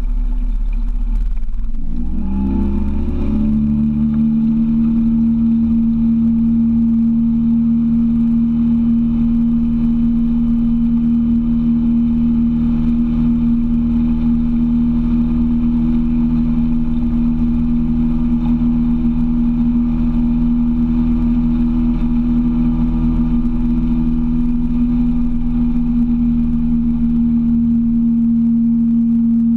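A boat's outboard motor rising in pitch as it is throttled up about two seconds in, then running steadily at speed.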